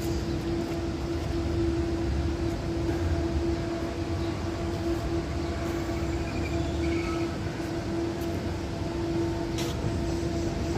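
Tatra KT3R tram, a steady electrical hum at one pitch over a low rumble.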